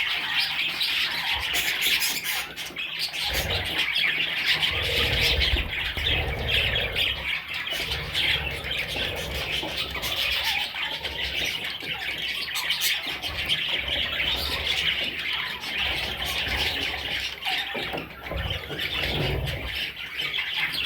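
A flock of small parrots chattering continuously, with squawks mixed into the chatter. Low rumbling comes underneath it about a few seconds in and again near the end.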